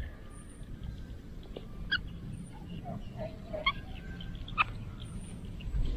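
A few short bird calls, about two, three and a half and four and a half seconds in, with some lower sliding notes between them, over a steady low rumble.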